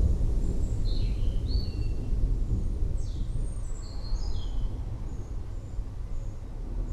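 Birds chirping over a continuous low rumble of distant thunder. A few quick falling whistled notes come in the first few seconds, then short high peeps.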